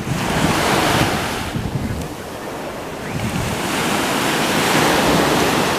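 Sea waves washing in, rising in two swells, with wind rumbling on the microphone.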